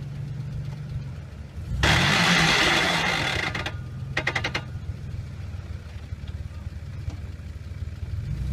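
A 4x4's engine idles, then is revved hard about two seconds in for a second and a half as the truck tries to climb a steep rock step, before dropping back to idle. A short run of clicks follows just after the rev.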